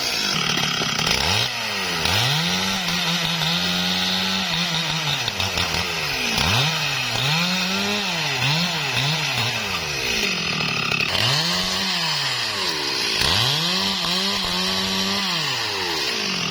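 STIHL MS382 two-stroke chainsaw running loud. Its engine speed rises and falls again and again, about every one to two seconds, as the throttle is opened and eased off while cutting into the tree.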